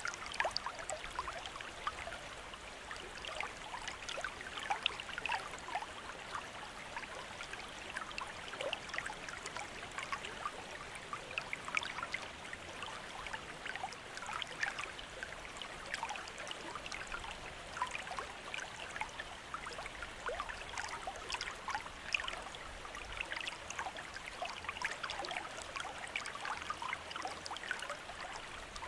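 Water from a bamboo fountain trickling and splashing steadily into a basin, with a constant patter of small droplets.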